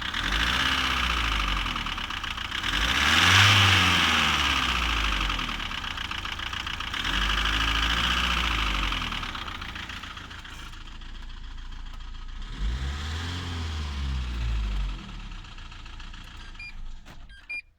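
Renault Laguna 2.0 dCi four-cylinder turbodiesel engine revved four times from idle, each rev rising and falling back, the second the loudest. The engine has a fault that is not named.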